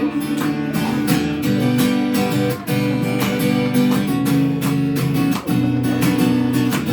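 Instrumental break in a live band song: strummed acoustic guitar chords over a steady beat, with no singing.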